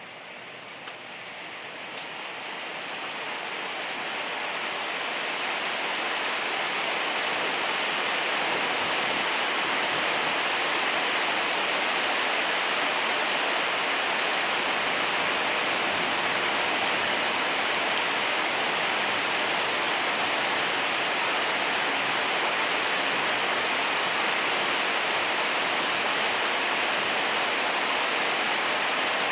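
Heavy rain falling in a steady hiss, swelling over the first several seconds as the downpour picks up, then holding level.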